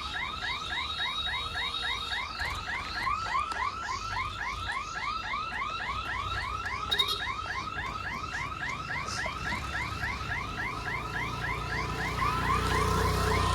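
Electronic level-crossing warning siren sounding a fast repeating warble, about four to five chirps a second. A low rumble builds near the end.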